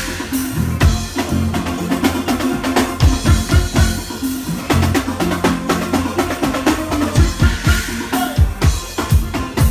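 Live soca band playing an up-tempo groove, with the drum kit to the fore: a driving kick drum and snare hits over a steady low bass line.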